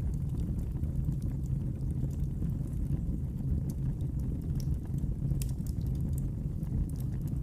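Wood fire crackling in a fireplace: a steady low rumble of burning with scattered sharp crackles and pops.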